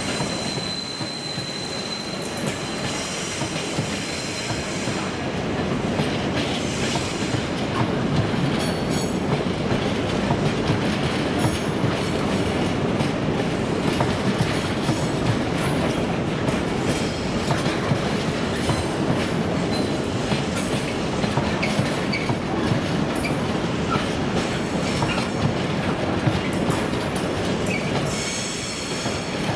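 A long train's wagons rolling steadily past, wheels clattering over rail joints with a continuous rumble. A brief high wheel squeal comes at the start.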